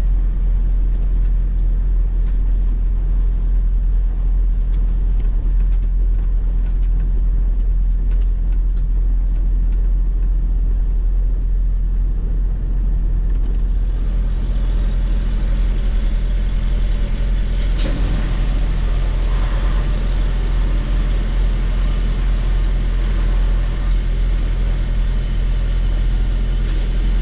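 Semi truck's diesel engine running steadily, a low even hum. About 14 s in a hiss joins it, and there is a short knock about 18 s in.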